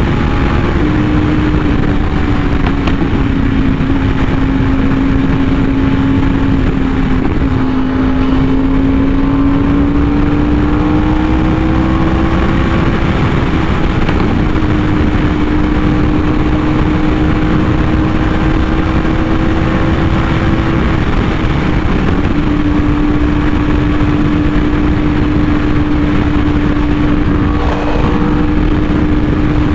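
Yamaha R1M's crossplane inline-four running through an SC Project exhaust at a steady cruise, its pitch drifting gently up and down with small throttle changes, over a constant rush of wind and road noise.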